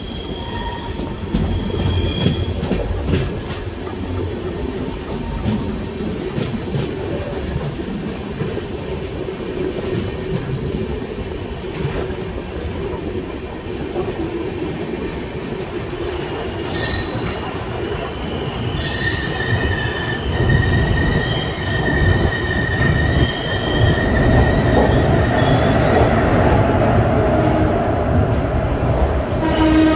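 Express passenger train running on the rails, heard on board: a steady rumble of the wheels with occasional clicks. In the second half a high, steady squeal of wheels on rail holds for several seconds, and the rumble grows louder toward the end.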